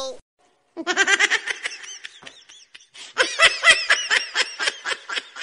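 Laughter from several voices in quick, overlapping bursts. It starts about a second in, dips, then grows louder again about three seconds in.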